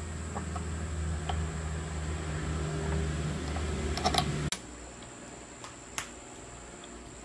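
A low, steady machine hum that cuts off suddenly about four and a half seconds in, with a few light clicks and knocks around the stop and one more click afterwards.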